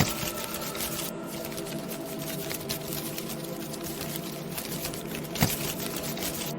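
Halloween ambience soundscape: a dense, continuous crackle of tiny clicks over a steady droning hum, with two louder pops, one at the very start and one about five and a half seconds in.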